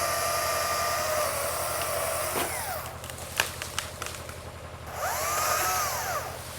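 Stihl MSA 200 battery chainsaw running with a steady high whine, winding down, then revved up and let back down once near the end, with a few sharp snaps between. A steady low engine hum runs underneath.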